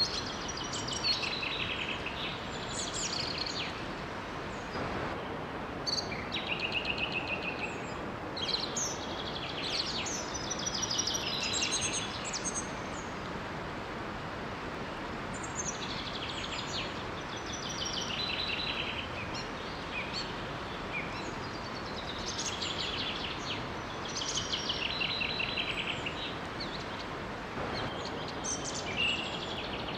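Songbirds singing in repeated phrases with short pauses, over the steady rush of a small waterfall.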